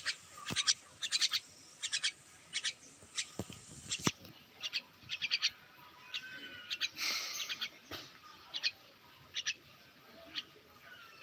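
Myna bird calling: many short, sharp chirps and clicks in irregular clusters, with a few faint whistled notes.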